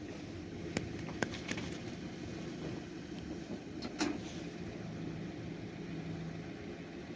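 Steady low hum of a running motor vehicle, with a few sharp clicks about a second in and a louder knock around four seconds in.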